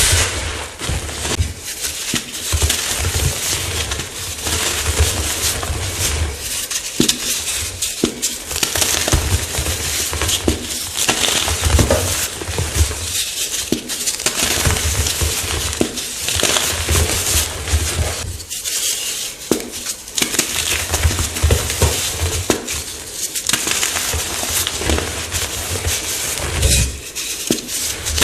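Chalk blocks being crushed: a dense, continuous crunching crackle that breaks off into short lulls every four to six seconds before starting again.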